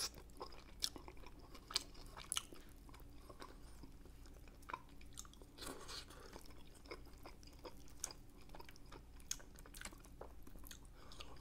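A person chewing pork rib meat close to the microphone: quiet wet mouth clicks and smacks scattered every second or so.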